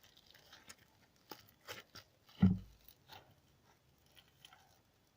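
Yellow slime being squeezed and kneaded by hand, making small wet clicks and pops. A single louder thump comes about two and a half seconds in, and the second half is quieter.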